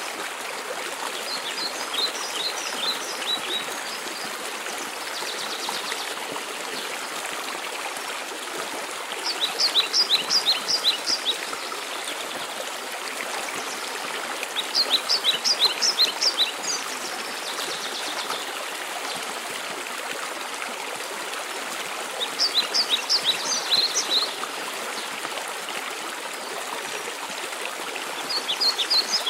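Waterfall rushing steadily, with a songbird singing short phrases of rapid high notes about every six seconds.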